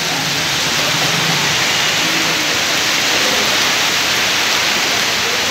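Heavy rain pouring onto a wet street, a steady hiss. A motorcycle engine runs faintly under it in the first second or so.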